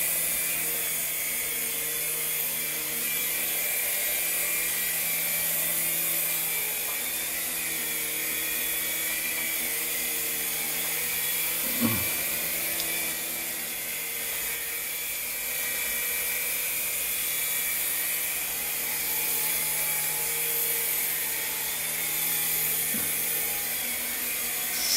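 Remote-control helicopter's motor and rotor blades whirring. The pitch steps up and down as the throttle changes, and there is a short knock about twelve seconds in.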